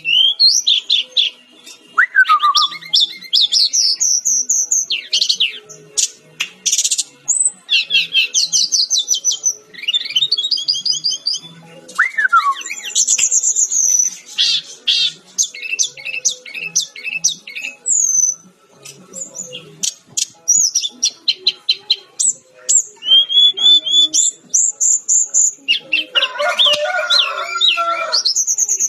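Brown-chested jungle flycatcher (sikatan-rimba dada-coklat) singing a fast, varied song of high trills, rising and falling whistled slides and rapid note series, with a denser, harsher chatter near the end.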